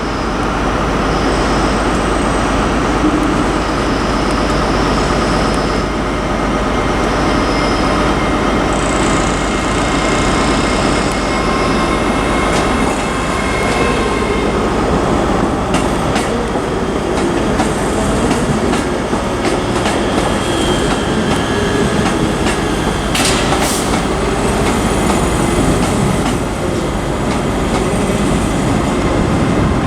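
ScotRail Class 385 electric multiple unit departing, a steady rumble of wheels on track with faint high wheel squeal early on giving way to a few sharp clicks over rail joints about two thirds of the way through.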